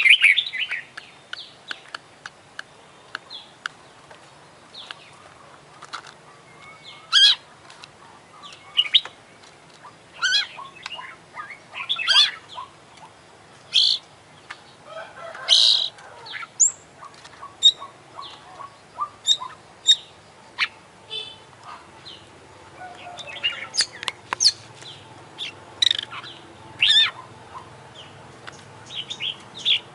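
Oriental magpie-robin (kacer) singing: an irregular string of short, sharp chirps and whistles of varied pitch, a song filled with phrases mimicked from other birds.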